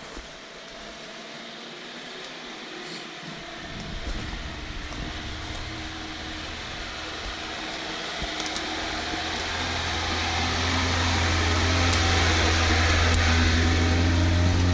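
Off-road vehicle's engine running with a steady low hum that grows gradually louder, loudest over the last few seconds.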